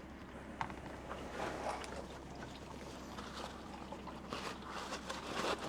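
Warm engine oil draining in a stream from a 2020 Nissan Titan's oil pan drain hole into a catch pan: a steady trickle.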